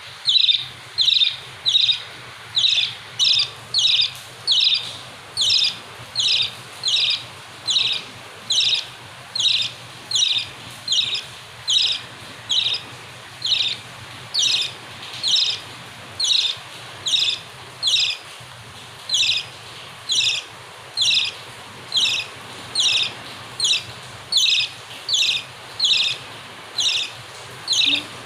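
A bird calling over and over in a steady rhythm, about two short, high chirps a second, each dropping quickly in pitch.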